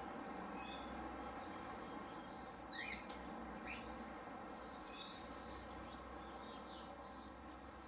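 Faint chirps and short calls from small aviary birds, scattered throughout, with one louder sweeping call about three seconds in.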